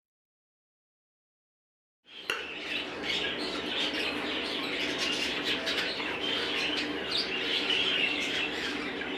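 Silent for about two seconds, then a flock of budgerigars chattering and chirping continuously, many birds calling over one another.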